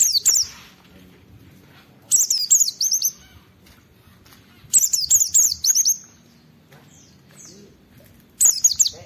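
White-eye (pleci) singing in short, rapid bursts of high twittering, sweeping notes: four phrases, two to three seconds apart.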